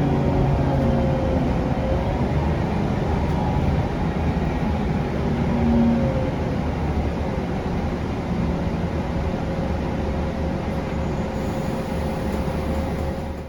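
Scania K360UA articulated city bus running on the road: its Scania DC9 diesel and driveline hum along with tyre and road noise, heard on board. The low engine tones shift slightly, and a thin steady whine runs underneath.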